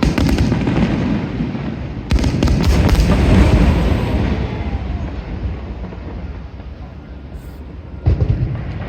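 Aerial fireworks bursting: a bang at the start, a bigger one about two seconds in followed by a long fading rumble, and another sharp bang near the end. Crackling follows the first two bursts.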